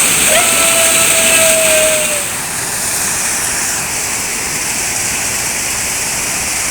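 Waterfall rushing steadily. Near the start, a single held tone sounds for about two seconds, sinking slightly in pitch. About two seconds in, the rush drops a little in level and sounds duller.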